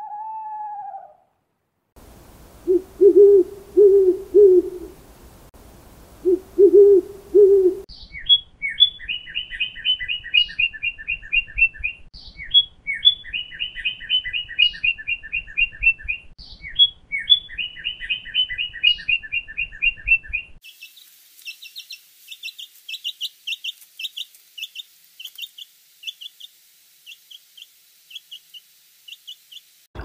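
An owl hooting in short runs of low hoots, then a northern cardinal singing three phrases of repeated, down-slurred whistles. Near the end comes a different recording of rapid, high-pitched chips from a small bird.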